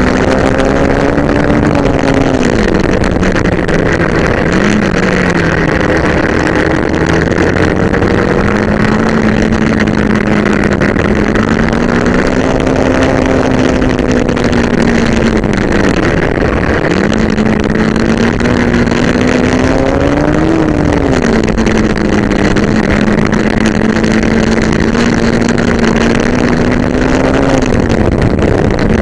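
Yamaha WR125X's single-cylinder four-stroke engine running under way, its note dipping sharply and climbing again about three times as the rider works the throttle and gears.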